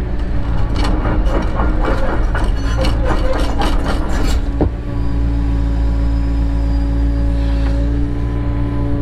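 Cat 307 excavator's diesel engine running steadily, with a run of clattering knocks through the first half, then just the engine and a steady hydraulic-like whine.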